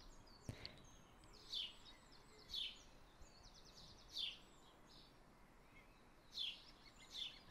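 Faint bird chirps over near silence: short high chirps that slide downward every second or two, with a brief rapid trill about three and a half seconds in.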